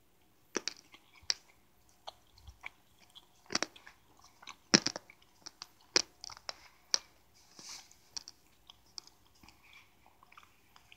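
A person chewing a mouthful of pancake topped with hard Christmas sugar sprinkles, close to the microphone, with irregular crunches as the sprinkles break between the teeth.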